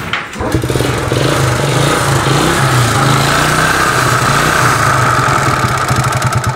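Yamaha Vega ZR's single-cylinder four-stroke engine running steadily with a rough, rattly sound, coming up about half a second in. The bike is smoking and sounds rough, the sign of a worn engine.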